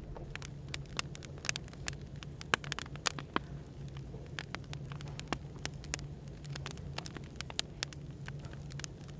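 Wood fire crackling, with irregular sharp pops and snaps, over a steady low hum of background ambience.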